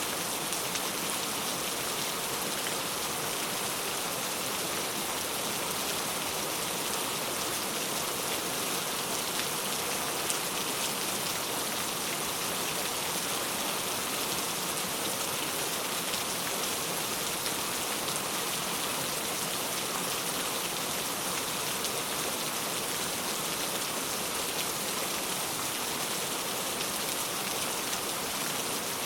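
Steady rain falling, an even hiss of many small raindrop ticks on a surface.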